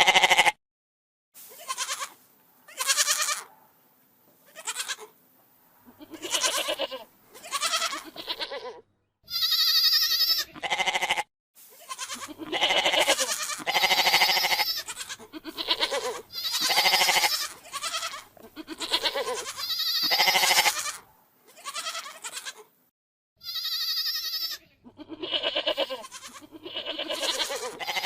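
Domestic goats bleating: about two dozen separate calls, one after another, with short pauses between them. Some calls are high and thin.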